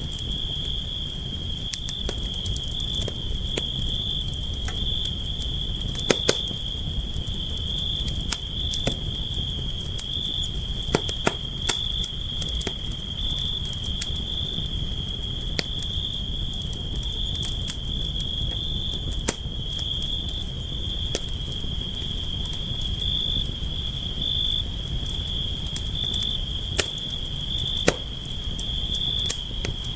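Campfire crackling, with a low rumble and scattered sharp pops, over a continuous high cricket trill.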